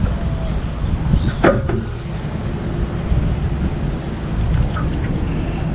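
Low rumble of wind buffeting the microphone, with a single sharp knock about one and a half seconds in.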